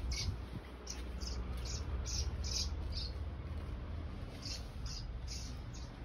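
A small bird's short high chirps, about two or three a second: a run of six, a pause of about a second and a half, then four more.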